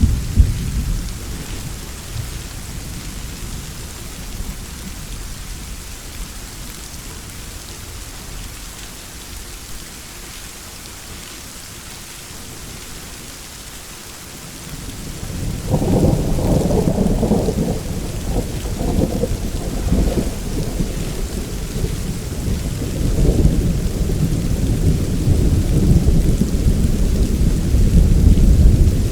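Steady rain falling, with rolling thunder: a rumble dies away in the first couple of seconds, then about halfway through a long, loud low rumble builds and keeps rolling in swells.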